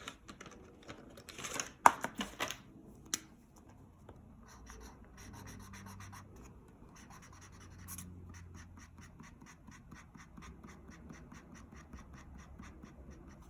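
Colouring on paper: quick back-and-forth strokes scratching at about four a second, after some brief rustling and a sharp click near the start.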